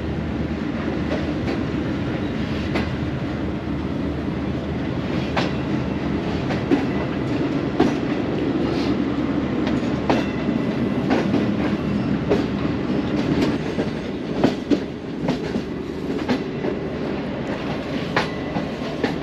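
Pakistan Railways Green Line Express passenger coaches rolling out of a station, heard from alongside a coach: a steady rumble with irregular sharp wheel clicks over rail joints and points, coming more often in the second half.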